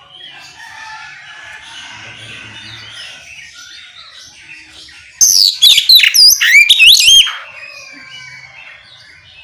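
Oriental magpie-robin (kacer) singing: soft, busy chirping and warbling, broken about five seconds in by a loud two-second run of clear, swooping whistled notes, its open 'ngeplong' song.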